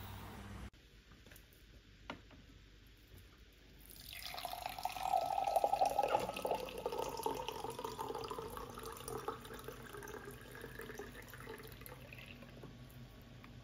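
Water running from a tap into a sink or container, starting about four seconds in and slowly tapering off.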